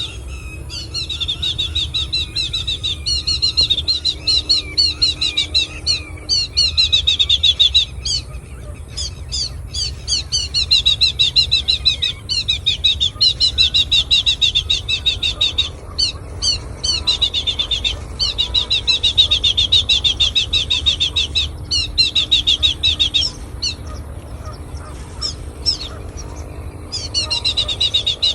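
A flock of birds chirping densely and continuously, many rapid high notes overlapping in bouts with short pauses, over a steady low rumble.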